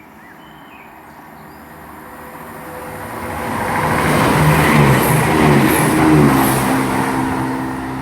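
Chiltern Railways Class 168 diesel multiple unit running through the station at speed without stopping. The engine and wheel noise builds over a few seconds, is loudest in the middle, and the engine note drops in pitch as the train goes past and fades away.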